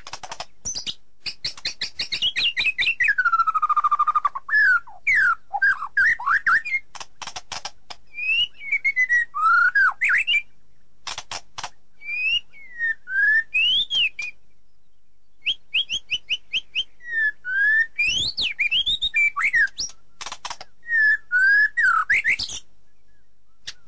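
A songbird singing a varied song of rising and falling whistles, rapid chirping trills and short pauses.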